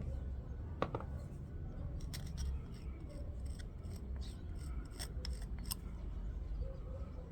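Sharp, light metallic clicks and scrapes, one about a second in and then a quick irregular run of them through the middle, as worn washing machine drum bearings are handled, over a steady low rumble.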